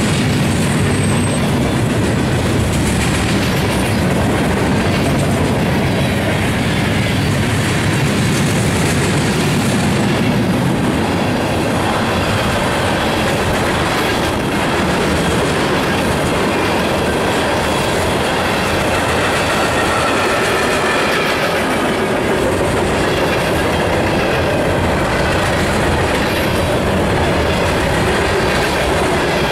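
Freight cars of a mixed freight train rolling past: a steady rumble with the clickety-clack of steel wheels on the rails. A faint, wavering squeal from the wheels comes in about halfway through.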